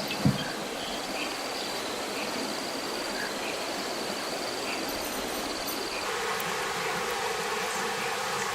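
Insects trilling high over a steady rushing background, with a couple of short knocks just after the start. About six seconds in, the trill gives way to a lower, steady buzz.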